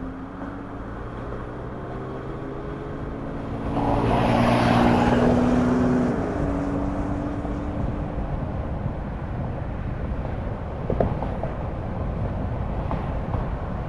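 Car driving on the road: engine hum with steady pitched tones over road noise, swelling to a louder, brighter rush for about two seconds around four seconds in.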